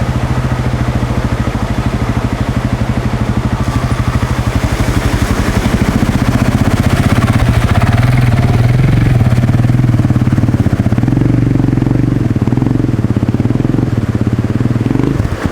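Motorcycle engine running under load, its revs rising partway through, then cutting out abruptly near the end as the bike stalls during a river crossing.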